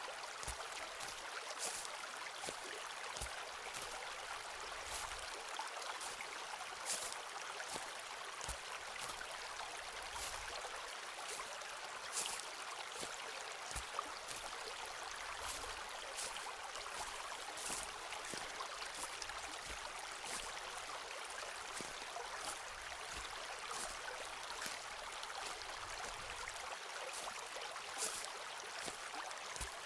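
Footsteps walking along a forest path, each step a short crunch or soft thud, roughly one a second, over a steady hiss of running water.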